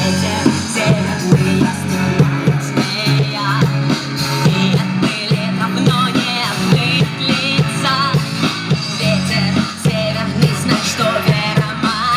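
Live rock band playing a song with sung vocals, electric guitar and drum kit keeping a steady beat.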